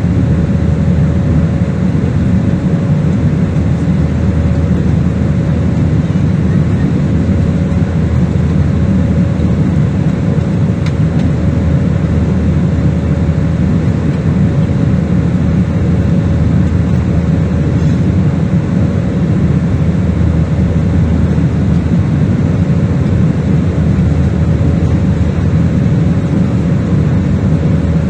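Airliner cabin noise: the steady rumble of jet engines and rushing air, with a faint steady hum on top.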